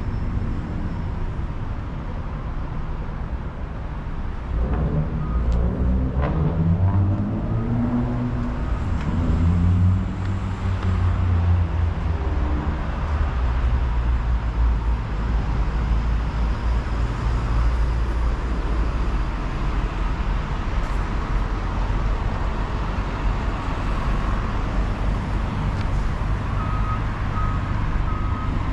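City street traffic with a steady low rumble of engines. About four seconds in, a vehicle's engine climbs and falls in pitch as it pulls away and passes. Near the end come a few short, high electronic beeps.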